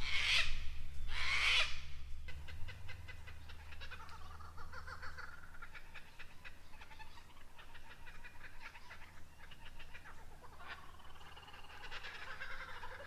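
Wild birds calling in eucalypt bushland: two loud, harsh calls in the first two seconds, then a mix of fainter chirps and trills, with another sharp call about eleven seconds in.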